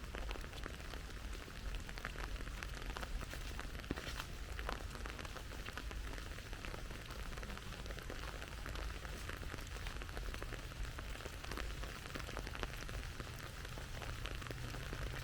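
Steady rain falling, with many separate drops ticking on nearby surfaces over an even hiss and a low steady rumble underneath.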